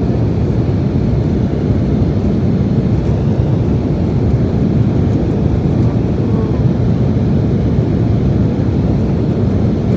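Steady low roar inside the cabin of an Embraer E175LR airliner: its two CF34-8E5 turbofan engines running under power, with the rush of air, heard from a seat behind the wing.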